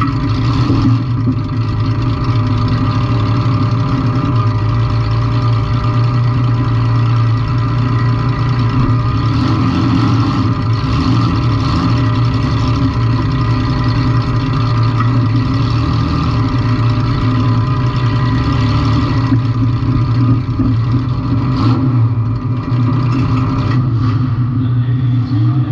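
Compact demolition-derby car's engine running steadily and loud, close up, with one sharp knock about three-quarters of the way through.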